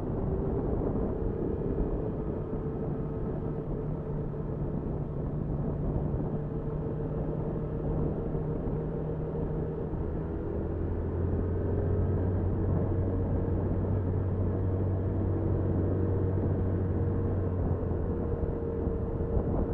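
Motorcycle engine running steadily under riding, with a low rumble. About halfway through, the engine note drops to a lower pitch and grows a little louder.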